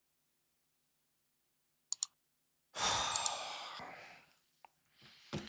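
A man's long, heavy sigh of exasperation: a breath out that starts loud and fades over about a second and a half, followed near the end by a shorter second breath. A brief double click comes just before the sigh.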